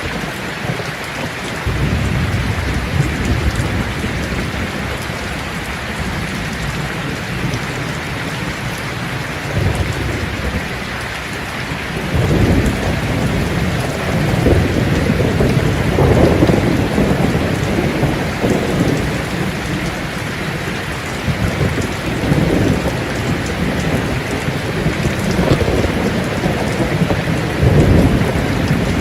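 Steady heavy rain falling, with low rolling rumbles of thunder that swell and fade several times.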